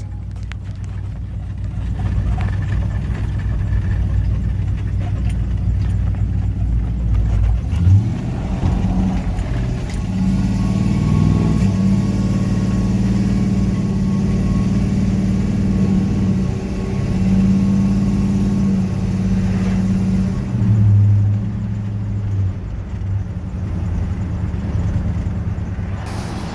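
A vehicle engine running steadily, its note rising and falling several times as the throttle changes.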